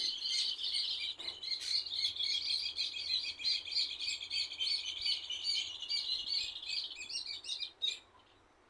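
Small birds chirping rapidly and continuously, many short high chirps overlapping in a dense twittering that cuts off suddenly near the end.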